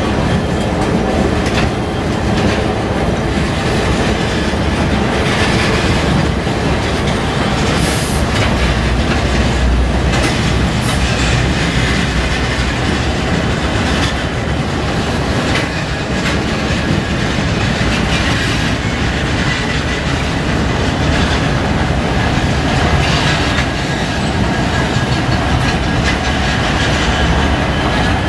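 A diesel locomotive moving a cut of tank cars slowly through a rail yard: a steady engine rumble with wheels clacking over rail joints and a faint high wheel squeal now and then.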